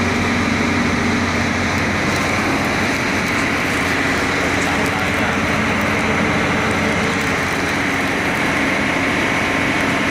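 Caterpillar 3406 inline-six diesel engine running steadily at a constant speed.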